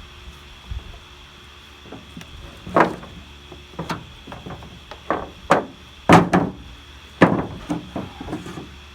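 A series of irregular knocks and thumps, about eight of them starting near the three-second mark, as objects are handled and set down, over a faint steady hum.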